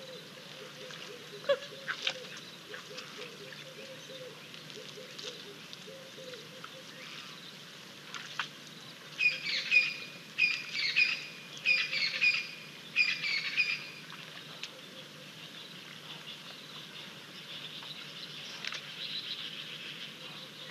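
Wild birds calling: scattered chirps, then one bird repeats the same short call phrase four times, about one a second, midway through, over a faint steady hiss.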